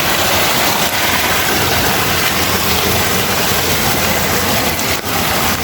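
Running floodwater and rain, a steady even rush of water.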